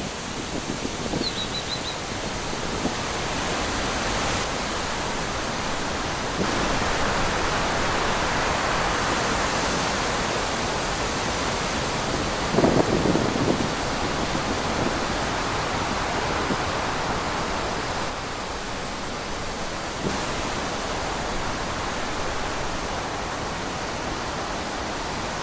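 Wind blowing through trees, a steady rush that swells and eases. A short high bird chirp comes about a second in, and a low gust hits about halfway through.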